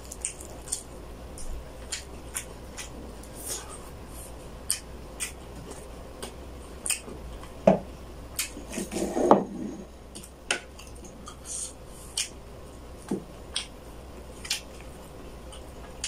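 Close-up mouth sounds of a person eating chicken hamonado with his hands: wet chewing and lip-smacking clicks, one after another. A knock comes about halfway through, and a louder clatter follows a second and a half later.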